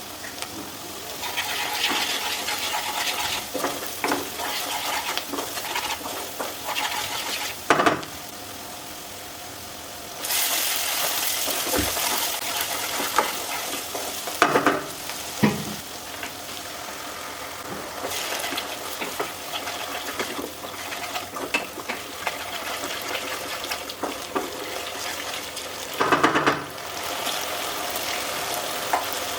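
Chicken frying in hot oil in a pan, sizzling steadily as it is stirred, with a few sharp knocks of the utensil against the pan.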